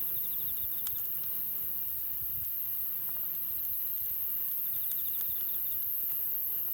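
Wood campfire crackling with scattered sharp pops. An insect chirps in the background in short, fast pulsed trills, once near the start and twice more in the middle.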